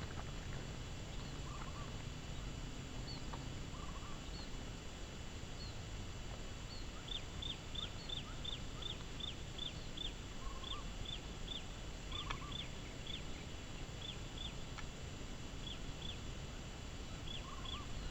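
Small birds calling: runs of short, high chirps at about three a second, with a few lower notes between them, over a steady low rush of outdoor noise.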